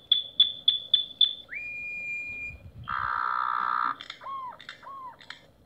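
Bird song: five quick high chirps, then a long steady whistle, a short buzzy note, and two lower arched whistles near the end.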